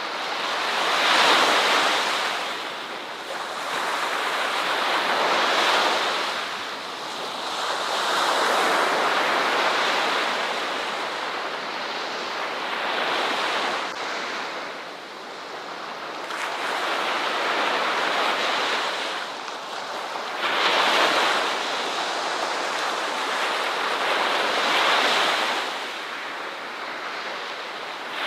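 Ocean waves breaking on a shore: a steady hiss of surf that swells and fades again every few seconds as each wave comes in and washes back.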